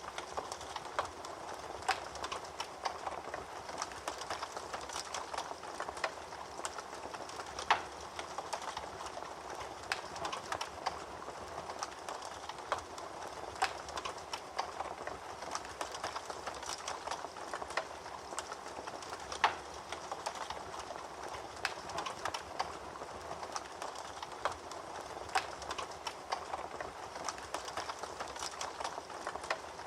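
Fire crackling in a fireplace: a steady soft hiss with frequent irregular pops and snaps, a few of them louder.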